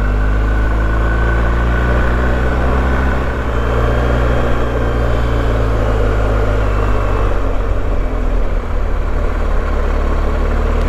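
BMW R1250GS boxer-twin motorcycle engine running steadily under way, with heavy wind and road rush. The engine pitch drifts only slightly.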